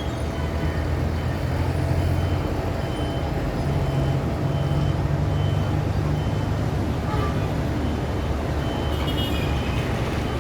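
Road traffic with heavy truck and car engines rumbling steadily as they pass, under a faint high beep that repeats at an even pace. A brief high squeal comes near the end.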